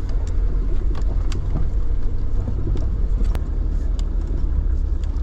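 A vehicle's engine running at low speed, a steady low rumble with scattered clicks and knocks.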